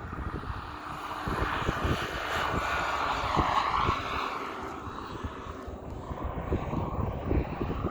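Giant-scale RC Bell 429 helicopter flying, its engine and rotor sound swelling to a peak about halfway through and then easing off as it passes, with low wind rumble on the microphone.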